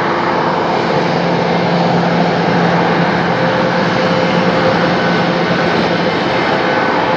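Jet airliner engines running loud and steady: a broad roar with a faint, thin whine above it.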